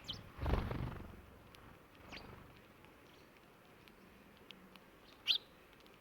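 House sparrows giving a few short single chirps, the loudest about five seconds in. A brief low rustle sounds about half a second in.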